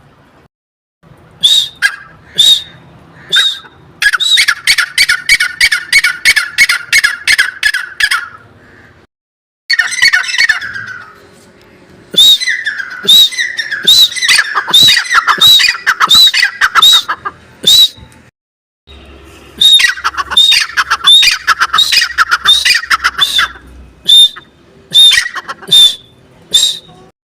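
Male teetar (francolin) calling: loud, shrill notes repeated rapidly in long runs, broken off abruptly by short gaps a few times.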